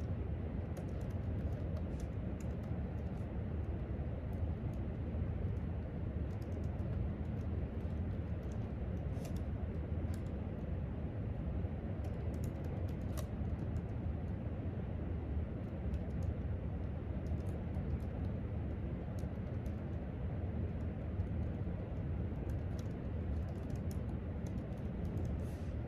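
Typing on a laptop keyboard: irregular runs of light key taps over a steady low room hum.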